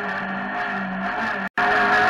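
Citroën Saxo Group A hillclimb car's four-cylinder engine running hard near 7,000 rpm, heard from inside the cabin. The sound cuts out for an instant about one and a half seconds in, then returns louder and slightly higher.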